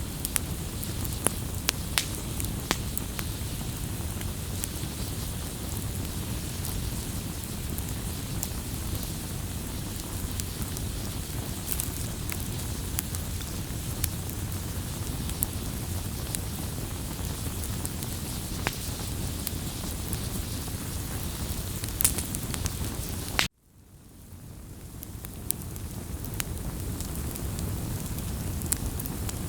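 Wood fire burning: a steady low rustling hiss with scattered sharp crackles and pops. About 23 seconds in the sound cuts out suddenly and fades back in over a few seconds, and a loud pop comes at the end.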